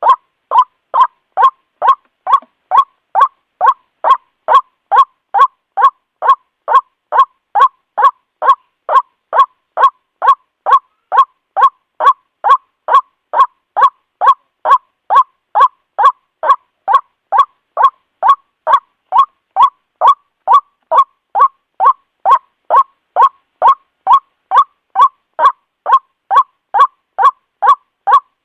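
White-breasted waterhen (Amaurornis phoenicurus) repeating a loud, short 'kwak' call over and over in an even rhythm, about two calls a second. It is the ruak-ruak lure call used to draw waterhens to a trap.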